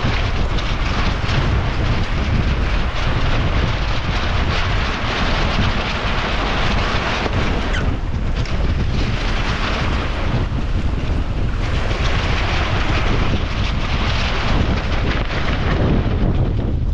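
Strong gusty wind buffeting the microphone: a loud, steady rushing noise with a heavy low rumble, heard aboard a small sailboat under way.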